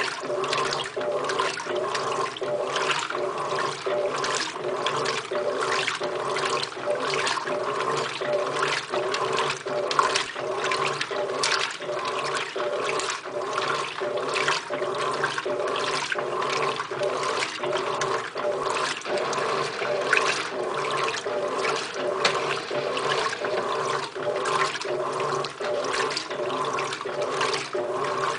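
Electrolux LTR15 top-loading washing machine agitating on its heavy-duty cycle: the agitator swishes the water back and forth in a steady rhythm of about two strokes a second, over the steady hum of the motor.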